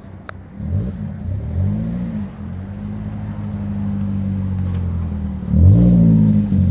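Exhaust note of a Scion iM's 1.8-litre four-cylinder engine, revved briefly twice about a second and two seconds in. It settles to a steady run, then is blipped again near the end.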